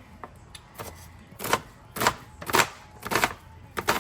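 Kitchen knife chopping an onion on a cutting board: about seven separate knocks, roughly one every half second.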